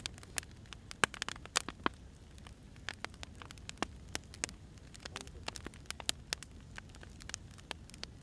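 Firewood burning, with sharp crackles and pops at irregular intervals over a low steady rumble of the fire.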